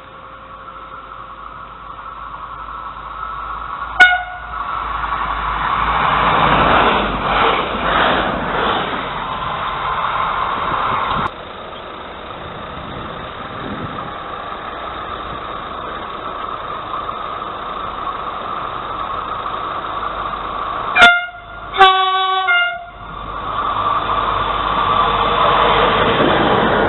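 A train horn gives a short blast, then the train passes with a rising and fading rumble of wheels on rail. Near the end the horn sounds twice more in quick succession, the second blast longer, with running noise continuing after.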